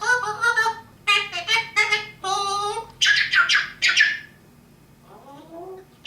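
African grey parrot vocalizing: a quick run of whistled and chattering calls that bend up and down in pitch. About three seconds in come a few sharper, higher squawks, and near the end a fainter, lower call.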